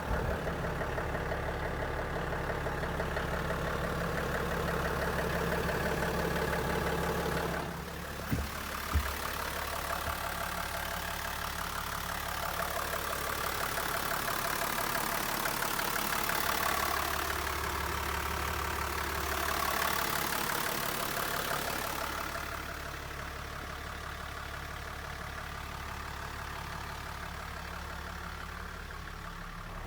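Toyota Coaster bus's 1HD straight-six diesel engine idling steadily. In the middle the engine speed rises and falls a couple of times before it settles back to a quieter idle.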